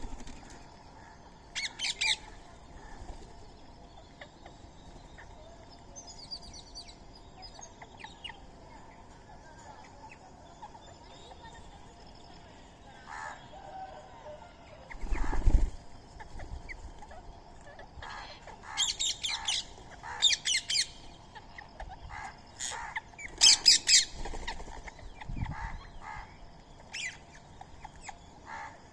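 Birds calling in short, loud bursts: a few calls near the start, then a cluster of calls about two-thirds through. A single low thump about halfway.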